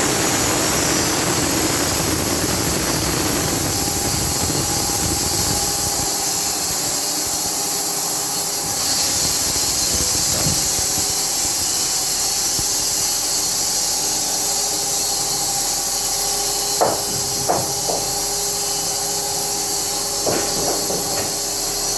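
Band sawmill cutting a log, a loud dense noise that eases about six seconds in as the cut comes through. The machine then runs on with a steady tone, and a few sharp knocks come near the end.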